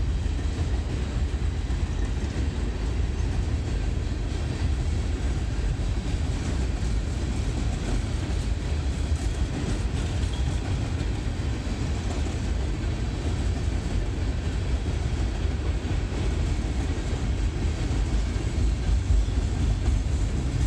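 Loaded coal train on the move, a steady low rumble of its wheels and freight cars.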